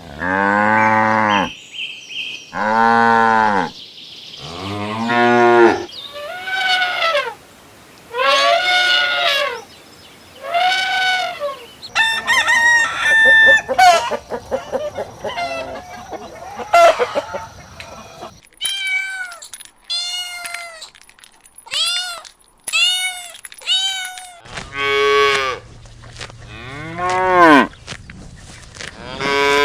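A run of farm animal calls one after another, with short gaps between them: calves mooing and chickens clucking and crowing.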